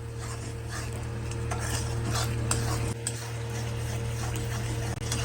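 A spatula stirring and scraping spiced onion-tomato masala as it sizzles and fries in a kadai, in repeated strokes about twice a second, over a steady low hum.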